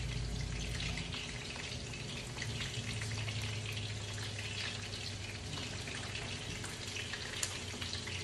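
Shrimp frying in a small pot of hot grease: a steady crackling sizzle with scattered pops, one sharper pop near the end.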